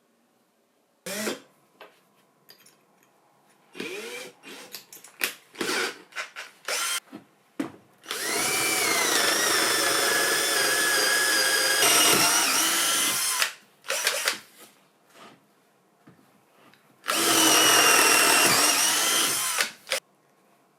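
Restored cordless drill, running on a lithium battery, triggered in bursts: a short blip about a second in, some clicks and rattles of handling, then the motor spins up and runs steadily for about five seconds, and again for about three seconds near the end.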